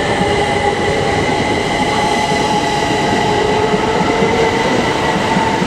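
Train running through the station: a loud, steady rumble with several held whining tones over it.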